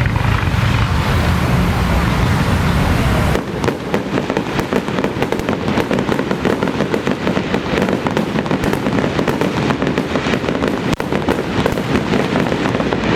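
Low rumbling noise, then about three seconds in a long run of electronic firecrackers starts, going off as a dense, rapid crackle without a break.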